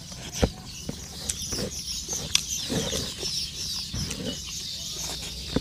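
Close-up chewing and lip-smacking of people eating by hand, with a few sharp mouth clicks, over steady high chirping of birds in the background.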